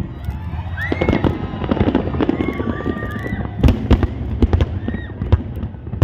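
Fireworks exploding in quick succession: many sharp bangs and crackles over a low rumble, the loudest pair a little past halfway.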